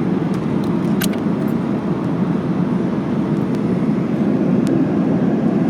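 Steady cabin noise of a Boeing 737-800 in cruise: the low rush of its CFM56 turbofans and airflow heard inside the cabin, with one brief click about a second in.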